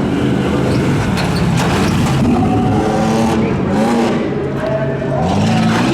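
Stock pickup truck's engine revving hard under load, its pitch climbing and dropping again and again as the throttle is worked over rough ground.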